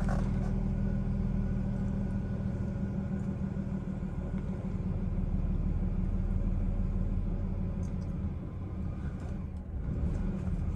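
Chevrolet Silverado pickup's engine idling roughly with a steady low rumble that eases for a moment about eight seconds in, then returns.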